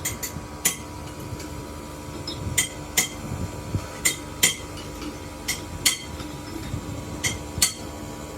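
Hammer blows on steel parts of an excavator track chain: about eleven sharp, ringing strikes, mostly in pairs.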